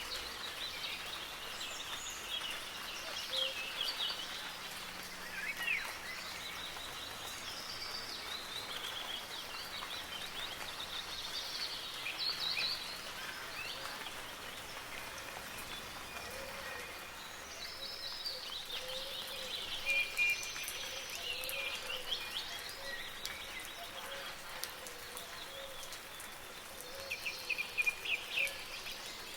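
Several songbirds chirping and trilling over the steady hiss of soft rain, with a quick run of sharp chirps near the end.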